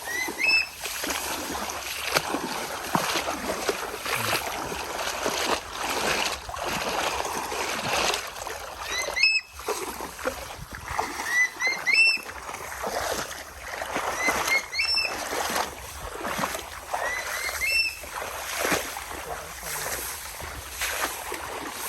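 A bird giving short, rising, whistled calls in groups of two or three, repeated every few seconds, over a steady rushing noise full of small crackles.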